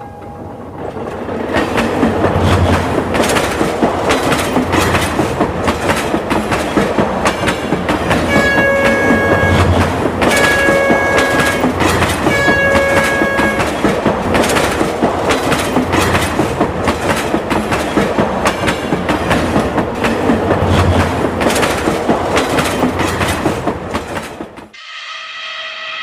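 A train running with its wheels clattering over the rails, and its horn sounded three times in long blasts about a third of the way in. The sound cuts off abruptly near the end.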